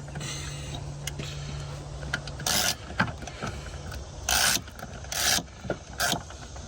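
Hand socket ratchet turning a tight nut in short strokes: four quick bursts of pawl clicking, with small metal knocks between them. A low steady hum stops about two seconds in.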